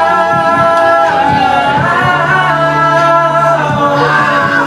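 Music: a singer holds long notes that bend up and down in pitch over low sustained notes.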